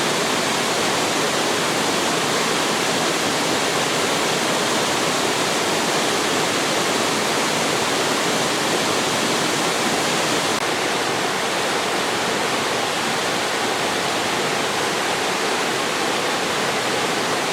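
Waterfall pouring into a mountain valley pool: a steady, even rush of falling water.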